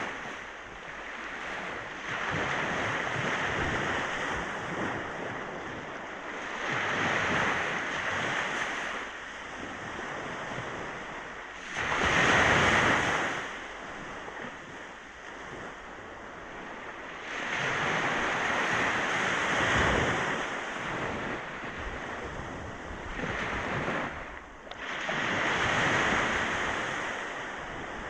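Ocean waves breaking and washing up on a beach, swelling and ebbing every few seconds, with one louder crash about halfway through.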